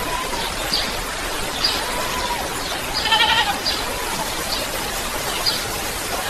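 Steady rain hiss with a short high chirp about once a second, and one longer, wavering animal call with several overtones about three seconds in.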